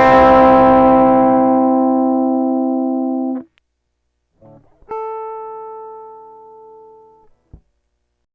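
Guitar played through an Átik Nuuk analog effects pedal. A chord rings and fades, then is stopped at about three and a half seconds. A second, quieter chord starts about five seconds in, fades, and is cut off near the end, followed by a small click.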